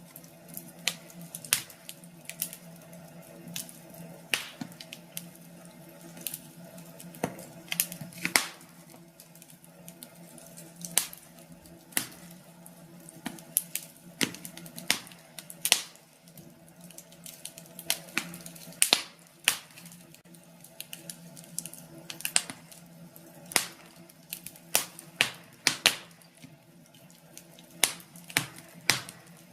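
Wood fire in a fireplace crackling, with sharp irregular pops over a steady low hum.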